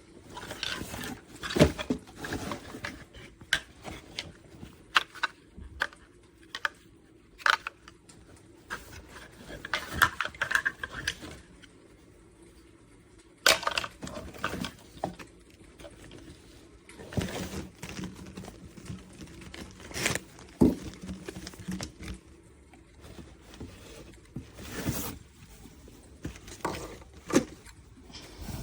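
Irregular clicks, knocks and scrapes of hard objects being handled, spread unevenly with short quiet gaps between them.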